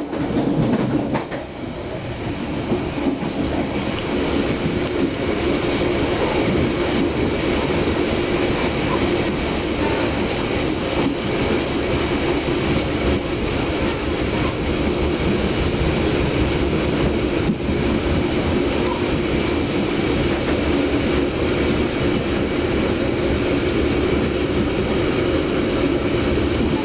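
Steady running noise of a Pasundan passenger train coach heard from inside the moving coach: wheels rolling on the rails with the car body rumbling and rattling. There are faint high squeaks in the first half.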